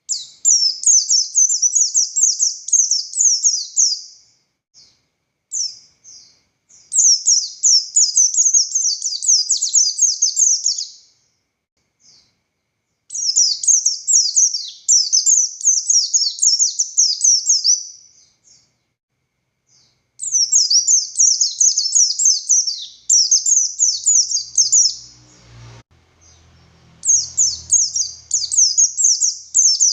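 A pleci buxtoni white-eye singing fast, high, chattering song phrases of a few seconds each, with short pauses between. A faint low rumble and a knock come about 25 seconds in.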